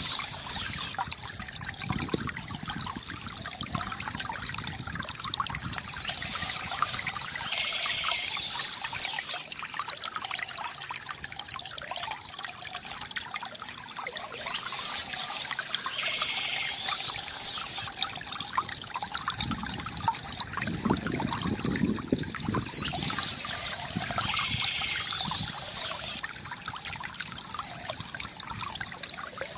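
Stream water trickling and splashing over stones, a steady running-water sound.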